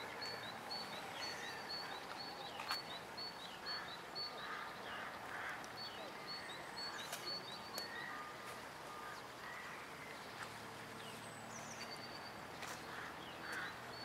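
Small birds chirping quickly and repeatedly in short runs, over faint outdoor street background noise.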